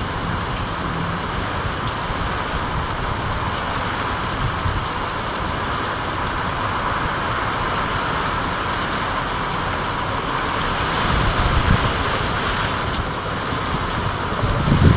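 Steady rain falling with an even hiss, with low rumbling swells rising near the end.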